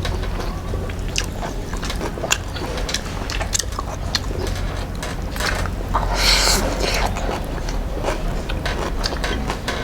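Close-up chewing and mouth sounds of a person eating rice with cooked greens: irregular small clicks and smacks, with a short hissing burst about six seconds in.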